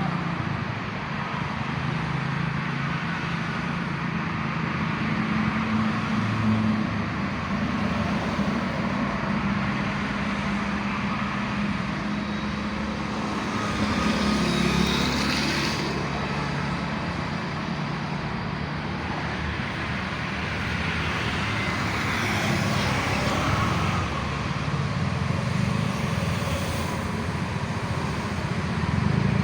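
Steady road traffic noise, with a low engine hum running under it.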